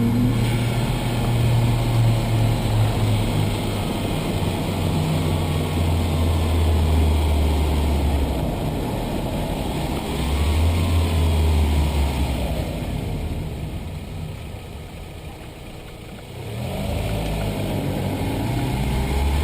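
Audi A4 B5's 1.8-litre turbocharged four-cylinder engine running. The low engine note holds steady, then shifts between levels. It falls away quieter for a few seconds about two-thirds of the way through, then picks back up.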